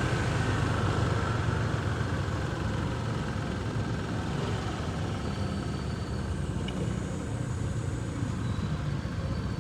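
Motorcycle engine running steadily at low revs, easing off slightly in the first couple of seconds, with street traffic around it.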